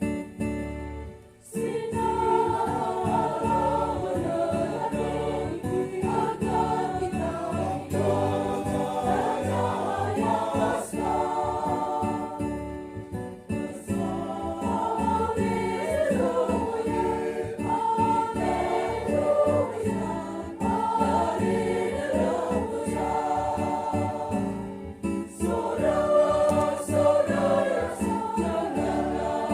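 Church choir singing a hymn together. The singing picks up after a short break about a second and a half in.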